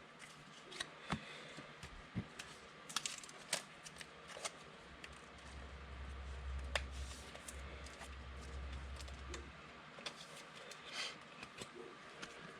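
Trading cards being handled and sorted by hand: scattered faint clicks and rustles, with a low hum for a few seconds midway.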